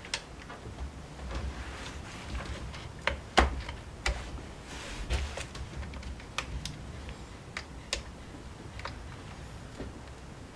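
Irregular small clicks and knocks of parts and tools being handled during reassembly of a Honda UMK-422 string trimmer, with the loudest knock about three and a half seconds in. Soft rustling runs between the clicks, over a low steady hum.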